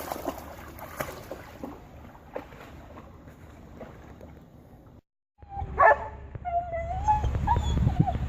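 A dog gives one short bark, then a drawn-out wavering whine, over a steady low rumble.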